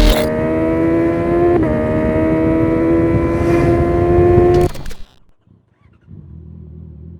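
Honda CB650R's inline-four engine through a straight-through Akrapovic full titanium exhaust accelerating, its pitch rising steadily, with a brief dip about a second and a half in as the quickshifter snaps an upshift. The sound cuts off abruptly near five seconds; after a moment of near silence a much quieter steady low engine hum starts.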